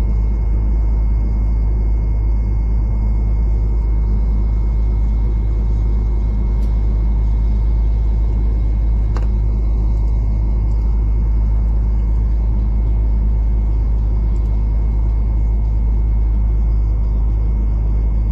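V/Line regional passenger train running at speed, a steady low rumble heard from inside the carriage, with a single brief click about nine seconds in.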